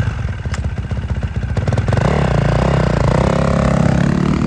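2020 Honda CRF450R Works Edition's single-cylinder four-stroke engine running through its Yoshimura exhaust. The throttle is blipped, so the pitch rises and falls repeatedly from about two seconds in.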